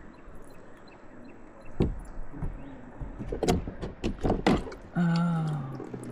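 Kayak on the river: water noise with several sharp knocks, likely paddle or hull knocks. About five seconds in, a man's voice gives a short falling groan.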